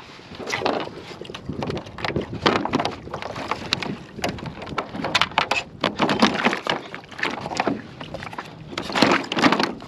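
Irregular clicks, knocks and rattles of gear being handled on a kayak as a tangled gaff is worked free, over water and hull noise.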